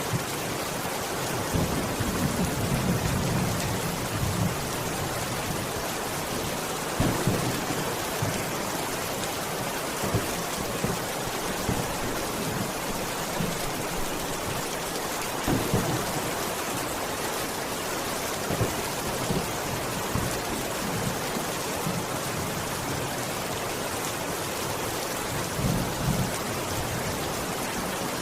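Steady heavy rain hissing, with low rumbles of thunder rising and fading now and then, the longest a couple of seconds in.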